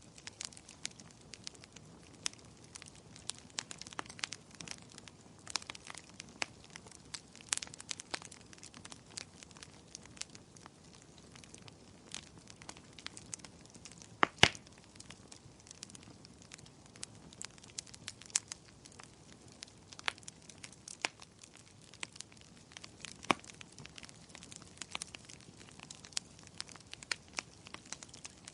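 Firewood burning in a fireplace: irregular sharp crackles and pops over a faint steady hiss, with one louder pop about halfway through.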